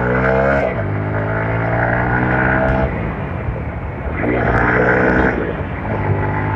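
TVS Apache RTR 160 4V single-cylinder motorcycle engine accelerating hard. Its pitch climbs and drops back sharply three times as it shifts up through the gears.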